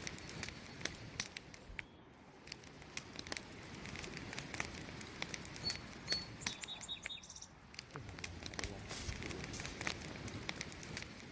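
Campfire wood burning, with crackling and popping in constant irregular sharp clicks over a low steady rush. A few brief high chirps come about halfway through.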